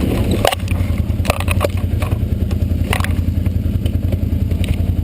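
Off-road vehicle's engine running with a steady low rumble while crawling, with several sharp knocks and clatters over it.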